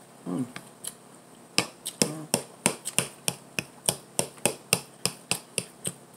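Close-up chewing with wet mouth smacks, about three sharp clicks a second, after a brief closed-mouth "mm" near the start.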